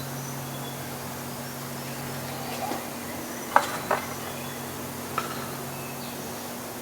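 Steady low electrical hum of a workshop, with small sharp clicks from handling small parts and tools: two close together about halfway through and one more about a second and a half later.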